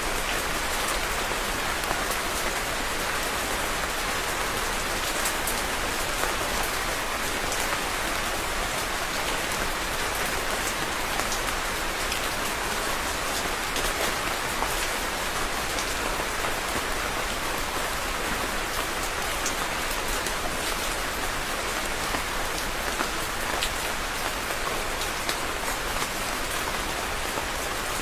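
Steady rain falling on a surface, a dense even patter with many small drops ticking through it.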